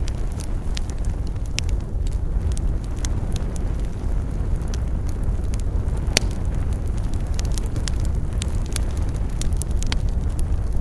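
Wood fire burning, with a steady low rumble and frequent irregular crackles and pops, one sharper pop about six seconds in.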